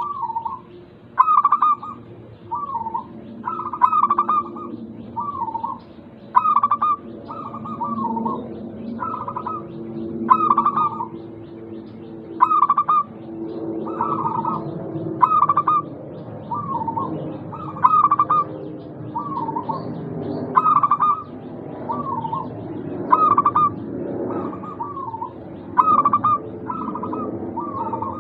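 Zebra dove (perkutut) cooing: short rolling coo phrases repeated over and over, often in pairs, about one to two a second. A softer, lower sound runs steadily beneath them.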